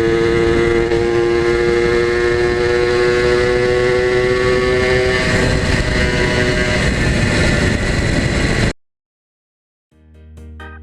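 Two-stroke motorcycle engine running at steady, held revs, its pitch sagging slightly, then cutting off abruptly about nine seconds in. Music fades in near the end.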